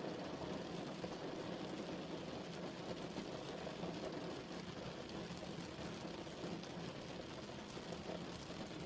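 Steady rain falling, an even continuous hiss weighted toward the low-middle range, with faint scattered drop ticks.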